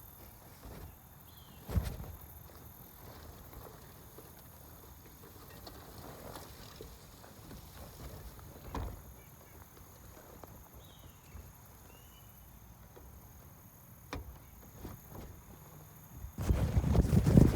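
A few isolated knocks over a quiet background, then loud, dense clattering knocks starting near the end.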